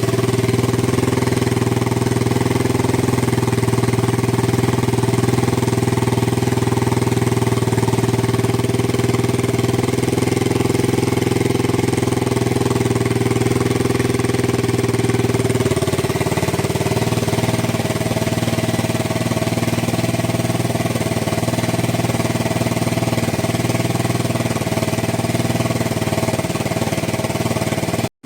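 Yamaha TW200's single-cylinder four-stroke engine running steadily through an aftermarket Gatling-style muffler. Its note shifts slightly about sixteen seconds in, and the sound cuts out for a moment just before the end.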